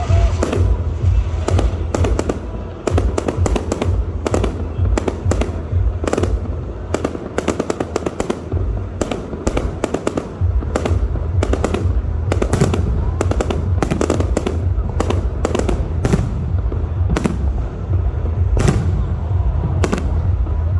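Fireworks going off: an irregular, near-continuous string of sharp cracks and pops, often several a second, over a steady low rumble.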